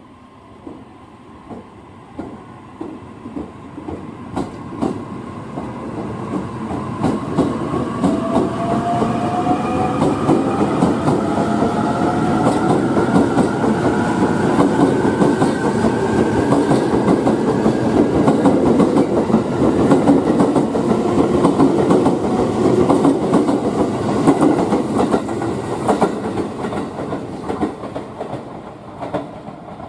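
JR East E657 series electric train pulling out and accelerating past. Wheel clacks over the rail joints come faster and faster while a whine rises in pitch, building to a loud steady rumble as the cars pass, then easing off near the end.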